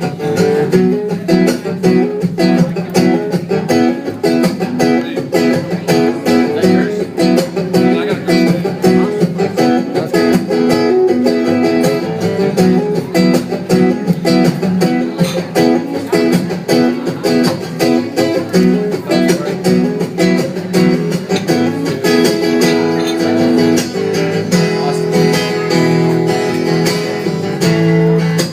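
Acoustic guitar strummed and picked steadily in a song's instrumental intro.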